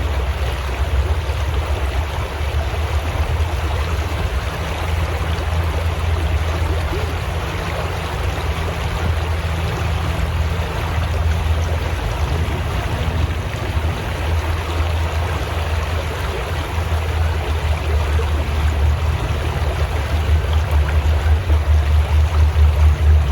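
Steady rush of running water, as of a stream, with a low rumble underneath.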